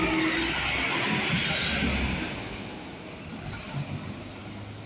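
A bus driving past: engine and tyre noise, loudest in the first two seconds, then fading away.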